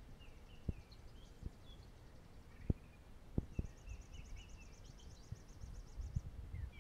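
Songbirds chirping, with a high rapid trill of about nine notes a second from about halfway until near the end. Underneath are a low rumble and a few soft thumps.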